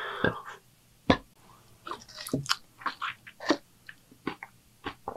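Close-miked mouth sounds of a person chewing food: a brief breath at the start, then a string of short sharp clicks and smacks, a few to the second.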